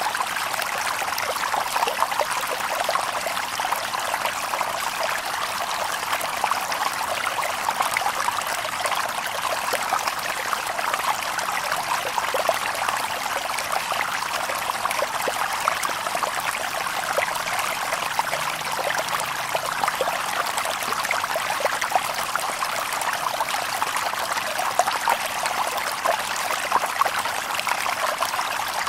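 Shallow river water babbling over stones: a steady, even burble full of small splashes, with no birds.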